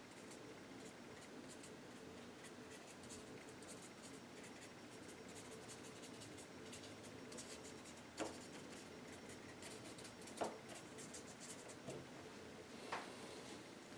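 Paintbrush loaded with acrylic paint brushing over the painting in quick, faint, scratchy strokes, with a few louder taps about 8, 10 and 13 seconds in.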